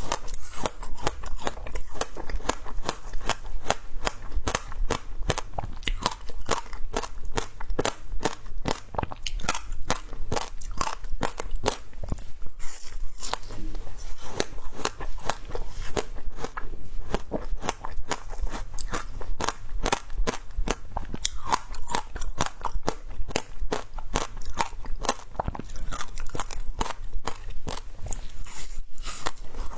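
Creamy shaved ice crunching as it is bitten and chewed close to the microphone: a quick, unbroken run of sharp crunches, several a second.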